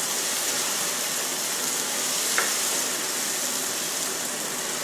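Onion, tomato and ground spice masala frying in oil in a kadai, a steady sizzling hiss, with one sharp click about two and a half seconds in. The masala is being sautéed until its raw smell is gone.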